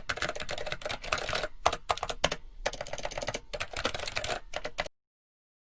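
A rapid run of sharp clicks and clatter, like fast typing, cutting off abruptly near the end.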